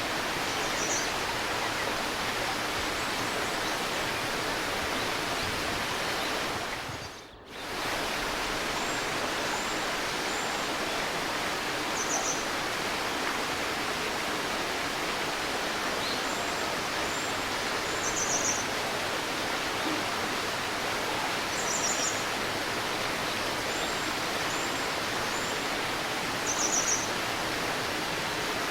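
A babbling stream running steadily, with small birds giving short, high chirps now and then, in little runs of two or three. About seven seconds in, the whole sound briefly dips and comes back.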